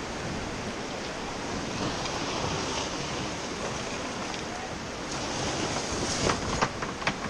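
Rushing whitewater river with wind buffeting the action-camera microphone on a moving raft. A few short sharp splashes or knocks come near the end.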